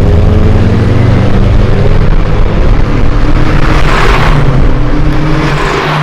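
Nissan Skyline C10 (Hakosuka) running through Solex carburettors, a tubular header and a dual Trust 50 mm muffler, loud and steady, swelling to a peak about four seconds in and again near the end.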